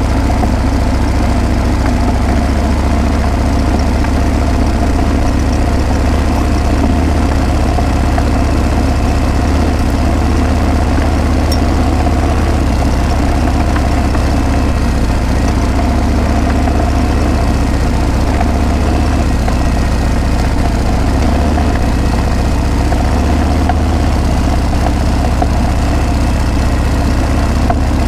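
Harley-Davidson Breakout's V-twin engine running steadily through its exhaust, a loud, even, low note.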